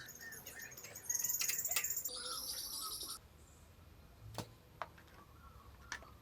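Bird chirping, a quick run of high repeated notes lasting about two seconds, followed by a few light clicks.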